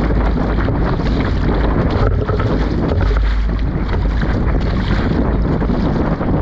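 Strong wind blasting across the microphone out on open water, a loud, steady rushing and buffeting.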